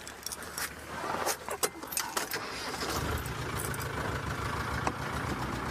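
A few knocks and rattles, then the safari vehicle's engine starts about three seconds in and runs with a steady low hum.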